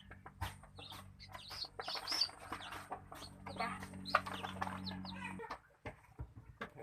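Village chickens clucking and calling in short, repeated calls, over a steady low hum that cuts off about five and a half seconds in.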